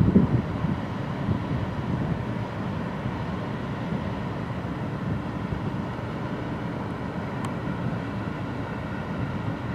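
Steady low mechanical rumble with a faint steady hum above it.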